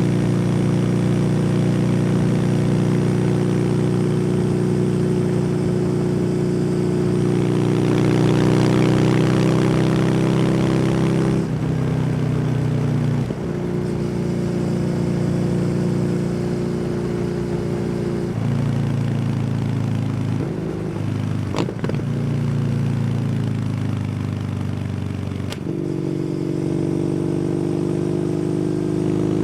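Kawasaki W800 parallel-twin with an SC Project exhaust, running at road speed with wind rush. The engine note steps down about eleven seconds in, settles lower, and picks back up again near the end.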